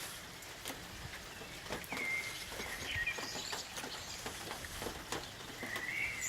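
Light summer rain falling steadily with scattered drips, while a small bird chirps a few times, about two, three and six seconds in.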